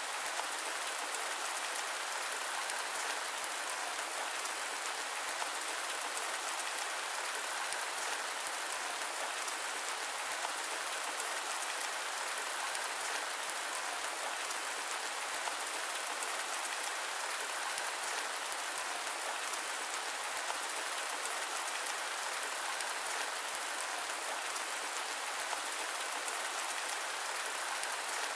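Steady rain: an even, unchanging hiss of dense falling drops, with no thunder and no deep rumble.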